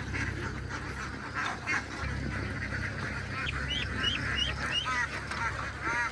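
A flock of domestic ducks quacking, with a quick run of calls at about four a second midway and another call near the end, over a steady low hum.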